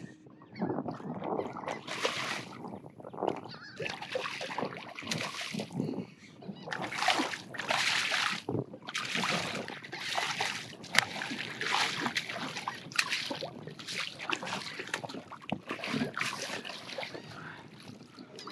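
Hooked redfish thrashing and splashing at the water's surface beside a kayak as it is brought in to the net, in a long run of irregular splashes.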